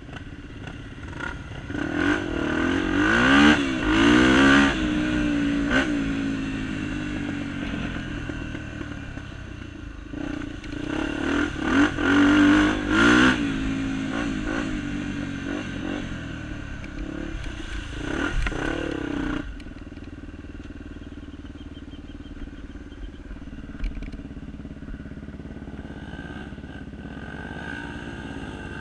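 Honda Tornado 250 trail motorcycles, single-cylinder four-strokes, revving as they ride through mud. The engine pitch rises and falls in three loud surges, at about 2, 11 and 18 seconds in, with quieter steady running between them.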